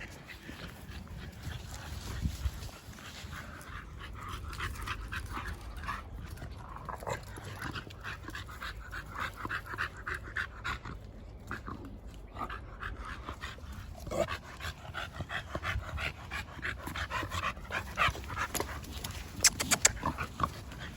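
A dog panting steadily, with quick short breaths.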